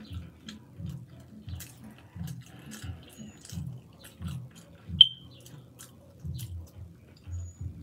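Close-miked chewing with wet mouth smacks and small clicks, at a steady rhythm of about two chews a second. About five seconds in comes a single sharp clink that rings briefly.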